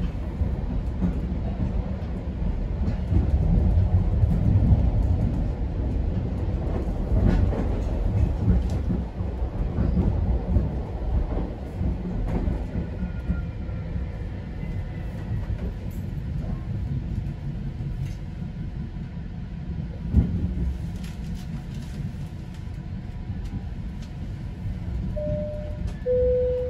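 GO Transit commuter train heard from inside the coach: a steady low rumble of the wheels on the track with scattered rail clicks, easing as the train slows into the station. Near the end comes a short two-note chime, the second note lower.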